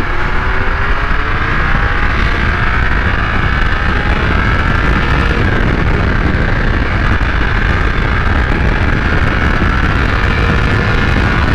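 Triumph Speed Triple 1200 RS's inline-three engine pulling hard in first gear. Its note rises over the first few seconds, then holds steady at high revs. Heavy wind rumble on the helmet microphone runs under it.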